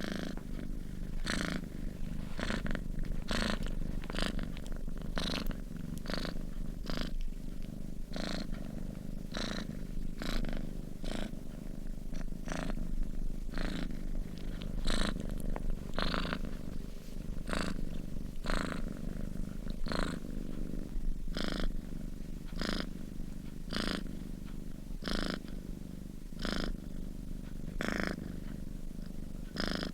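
Domestic cat purring steadily while asleep: a continuous low rumble with a breathy pulse every second or so as it breathes in and out.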